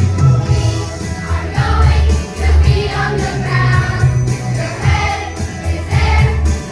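Children's choir singing along to a recorded backing track with a heavy bass line and a steady beat.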